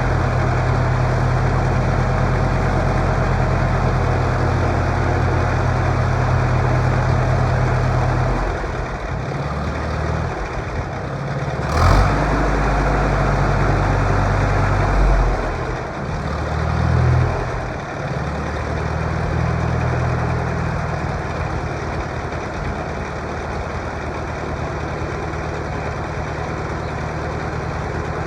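Farmall M tractor's four-cylinder engine running steadily. About eight seconds in its note shifts, rising and falling for several seconds, with one sharp click about twelve seconds in. It then settles back into a steady run.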